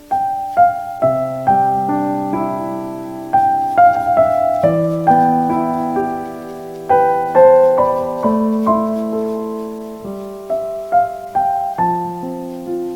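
Soft background piano music: gentle notes and chords struck one after another, each ringing and fading.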